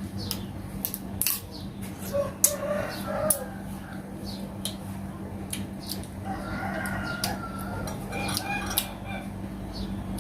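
A rooster crowing in the background, with short calls about three seconds in and a long crow from about six to nine seconds in. Sharp clicks and smacks of someone eating soy-pickled crab are scattered throughout, over a steady low hum.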